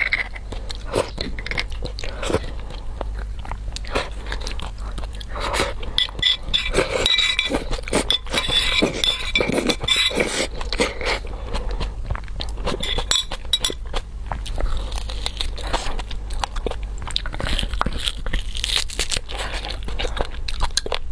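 Close-miked biting and chewing on braised beef bone marrow and its tough tendon, a steady run of short crunches and clicks. The sinew is so tough that the eater cannot bite through it.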